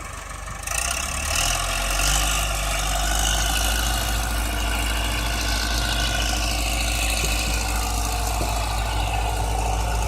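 An engine running steadily, a low drone that gets louder about a second in, with a broad hiss above it.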